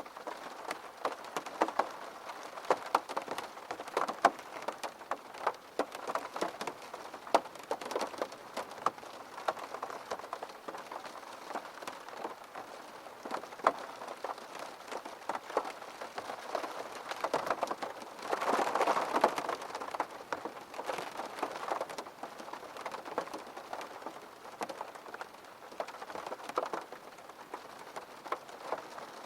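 Steady rain with many separate drops tapping close by, swelling louder for a couple of seconds about two-thirds of the way through.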